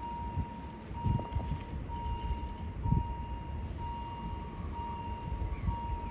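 Railway level-crossing warning signal sounding: a single steady electronic tone repeating about once a second, each note held almost a second with a short break between, over irregular low rumbles.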